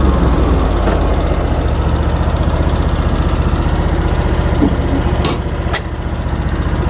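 Lawn mower engine idling steadily, with two sharp clicks about half a second apart a little past the middle.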